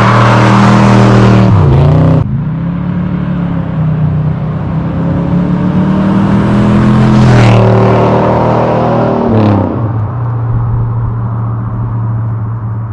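1987 Chevrolet Monte Carlo SS with a swapped-in 454 big-block V8 and full exhaust, pulling hard out of a burnout with its tyres spinning. Its revs fall about two seconds in as it passes and gets quieter, climb again, and drop once more near ten seconds as the automatic shifts.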